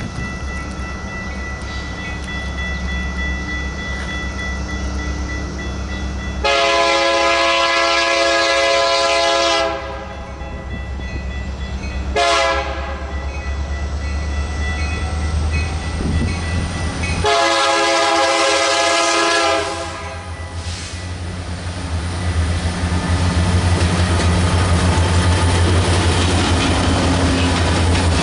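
Approaching diesel train sounding its multi-chime horn in three blasts: long, short, long, the pattern of a grade-crossing warning. Under it the locomotive's engine rumbles, and the rumble with wheel noise grows louder near the end as the train closes in.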